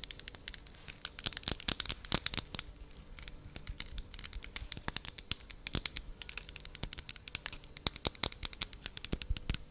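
Sticky, wet lip-smacking and mouth clicks from glossed lips held close to the microphone, in quick irregular runs with a quieter spell in the middle.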